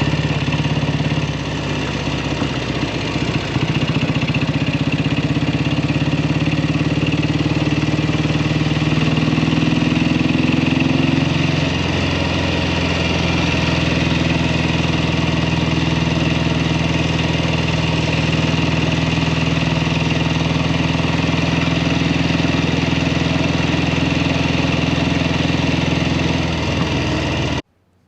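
1967 Kawasaki W1 650's parallel-twin engine running steadily, with a brief rise in pitch about ten seconds in. After years of sitting it is not running 100%, with its ignition and carbs due for work. The sound cuts off abruptly near the end.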